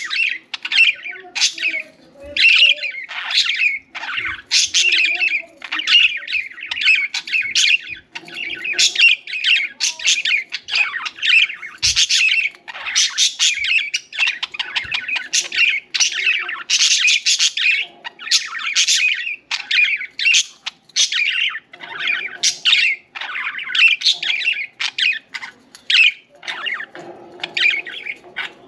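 Several pet budgerigars (parakeets) chirping and chattering without pause, with rapid, overlapping short calls several times a second.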